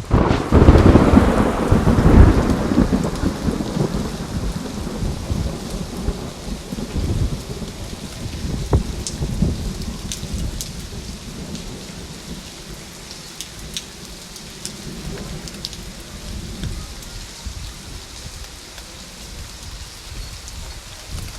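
A thunderclap breaks in suddenly: a loud, low rumble that peaks within the first few seconds and rolls away over about fifteen seconds. Steady rain runs underneath, with separate raindrops ticking in the second half.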